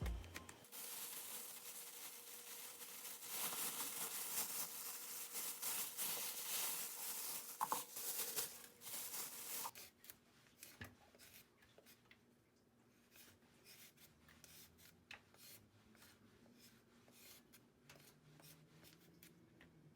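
Rubbing and scraping handling noise made of many quick strokes for about the first ten seconds, then much quieter scattered light clicks and taps.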